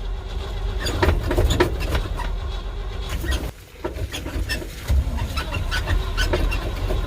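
1970 Chevrolet dump truck's engine being cranked over by the starter, in two tries with a short break about three and a half seconds in, without catching. The engine had died on the road and looked to be starving for fuel.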